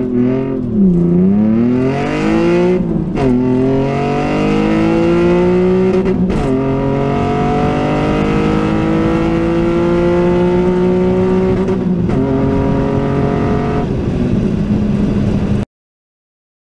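Cammed 3.0-litre Taurus DOHC V6 in a Ford SVT Contour under full-throttle acceleration, heard from inside the cabin. The revs climb and drop with upshifts about half a second, three and six seconds in, then rise slowly in a higher gear until about twelve seconds in and hold nearly steady. The sound cuts off suddenly about fifteen and a half seconds in.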